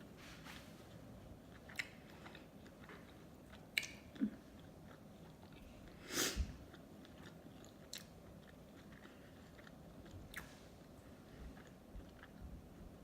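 A person chewing sushi: soft, wet chewing with scattered mouth clicks and smacks. The loudest smack comes about six seconds in.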